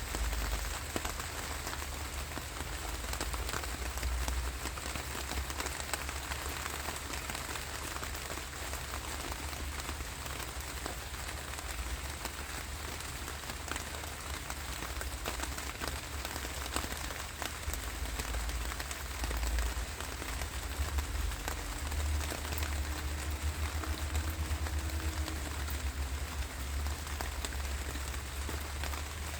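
Steady rain falling: a continuous hiss with many individual drops ticking through it, over a steady low rumble.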